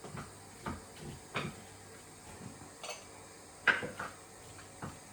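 Cooking utensil knocking and scraping against a pan as rice, mixed vegetables and lamb are mixed together: irregular light clinks, the loudest about two-thirds of the way through.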